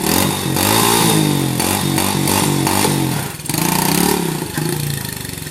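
Yamaha 90cc dirt bike's single-cylinder engine revving up and down while being ridden, its pitch rising and falling several times and easing off near the end.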